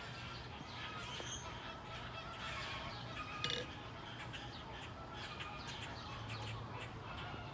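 Birds calling and chirping in a mix, with one louder, sharper call about three and a half seconds in, over a steady low hum.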